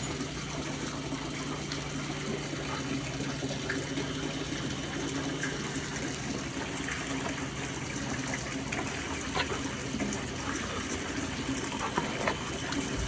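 Water running steadily, a continuous gushing like a tap or hose.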